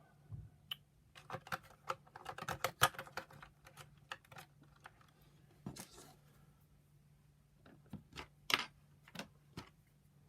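Light clicks and knocks of hard plastic parts being handled and fitted together as a circuit board is seated in a vacuum power nozzle's plastic housing. There is a dense run of clicks in the first few seconds and a few scattered ones later.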